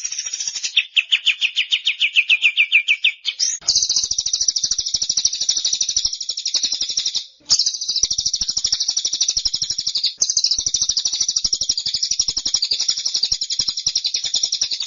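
Small songbird singing long rapid-fire trills of very fast repeated notes, in several phrases with brief breaks; the song jumps to a higher pitch about three and a half seconds in.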